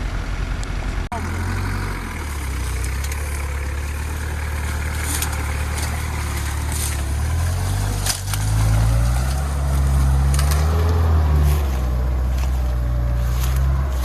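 Off-road SUV engine running under load, its pitch rising in steps as it revs up past the middle and again a little later, with scattered sharp knocks.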